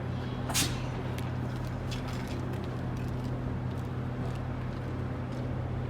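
GO Transit diesel commuter train running with a steady low hum, with a short sharp hiss about half a second in and a few faint clicks.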